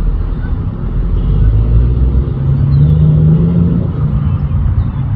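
Loud, steady low rumble, with a steadier low hum for about a second in the middle.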